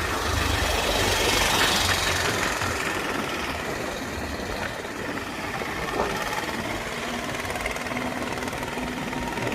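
Motorcycle engine running steadily during a ride, with a short click about six seconds in.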